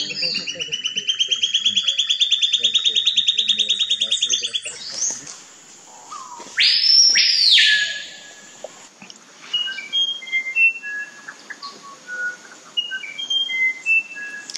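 Forest birds calling: a long fast trill of about ten notes a second that rises slightly and holds, then a loud slurred whistle sweeping up and down, followed by scattered short whistled notes at different pitches.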